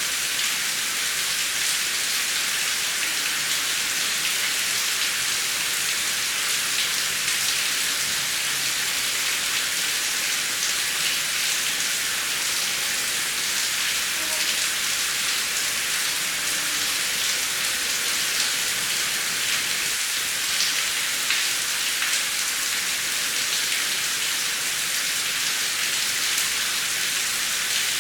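Heavy rain falling steadily, a dense hiss with many close drop ticks and no thunder.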